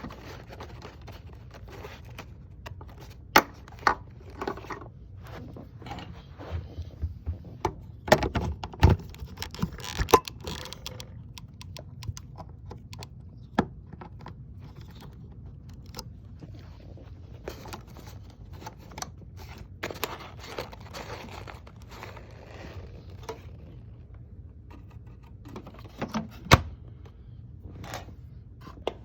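Handling noises from a vacuum cleaner and its packaging: scattered clicks, knocks and scraping, with a quick run of knocks about eight to ten seconds in and a sharp knock near the end. No motor is running.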